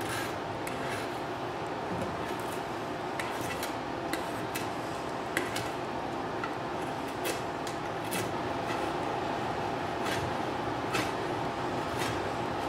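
Knife blade shaving wood off the edge of a board: short, irregular scraping strokes, about a dozen, over a steady background hum.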